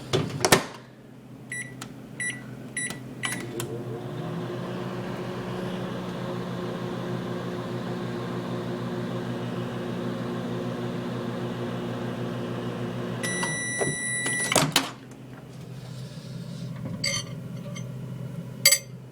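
Microwave oven: the door shuts with a knock, the keypad beeps four times, then the oven runs with a steady hum for about eleven seconds. It finishes with a long end-of-cycle beep and the door is knocked open, followed by a few light clicks.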